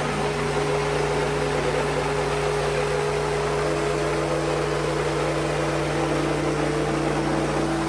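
Wood-Mizer LX55 portable band sawmill running steadily under power, a constant machine hum with held tones; a second, higher tone joins about four seconds in.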